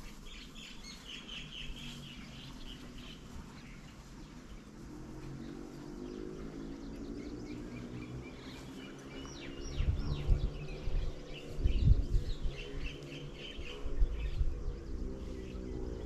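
Small birds chirping and twittering in two spells, near the start and again through the second half. Under them a low steady hum sets in about five seconds in, and several dull low thumps come in the second half.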